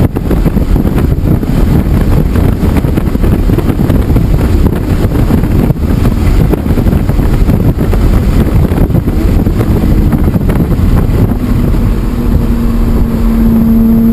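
BMW E46 M3's S54 straight-six heard onboard at low load under heavy wind buffeting on the microphone. A steady engine drone comes in near the end.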